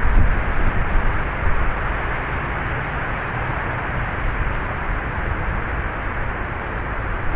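Heavy thunderstorm rain pouring steadily, with gusty wind buffeting the microphone as an uneven low rumble.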